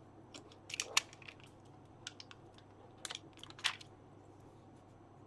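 Paper and craft materials being handled on a desk: a few short crinkles and taps, the strongest about a second in and again around three to four seconds in.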